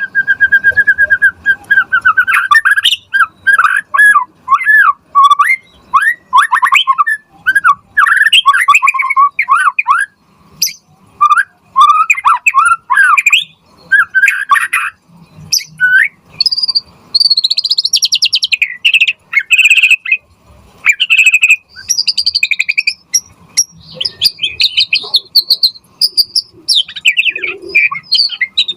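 White-rumped shama (murai batu) singing a long, varied song of rapid whistled phrases. It opens with a steady trill, then runs through quick looping whistles, and moves to higher, sharper notes in the second half.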